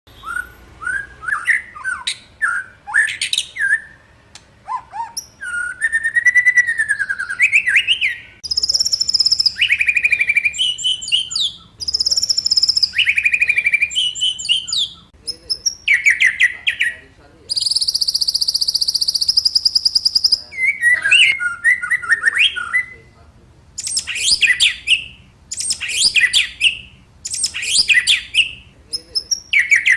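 White-rumped shama (murai) singing a loud, varied song of whistled phrases that rise and fall, broken by short pauses, with a long, high buzzy trill about 18 seconds in.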